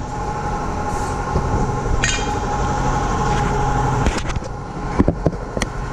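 Steady mechanical hum with a held tone, with a few sharp metallic clicks about five seconds in.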